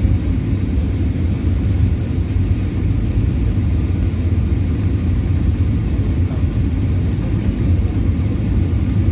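Airbus A320 in flight: a steady low rumble of engines and airflow that holds even throughout.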